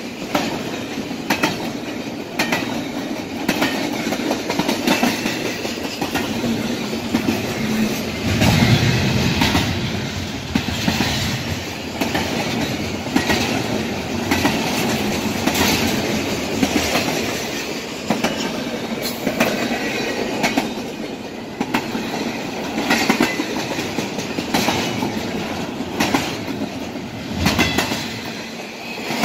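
Double-stack intermodal freight train passing close by: steel wheels clacking over rail joints in repeated irregular knocks over a steady rolling rumble, with a louder swell about nine seconds in.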